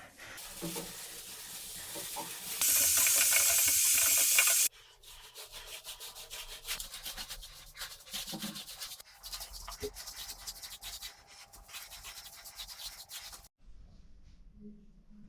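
A brush scrubbing a hard surface in quick, scratchy strokes, with a louder steady hiss for about two seconds near the start.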